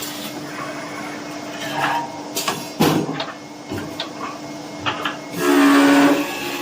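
Automatic wooden-handle lathe running with a steady hum, with several sharp knocks and clacks in the middle and a louder stretch of about a second near the end.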